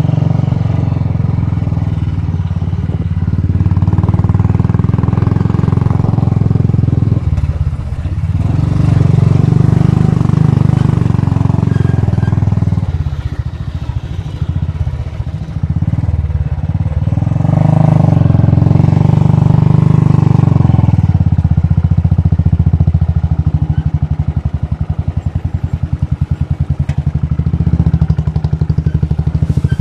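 Royal Enfield Bullet's single-cylinder four-stroke engine running under way, its steady beat rising and falling as the throttle is opened and eased off, dropping back for a few seconds near the middle.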